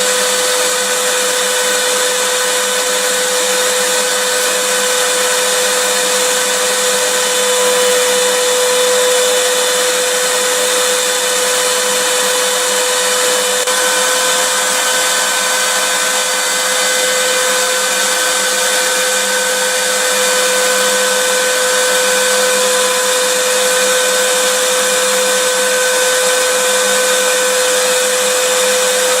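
Vacuum cleaner running steadily: a loud, even rush of air with a constant motor whine held on one pitch.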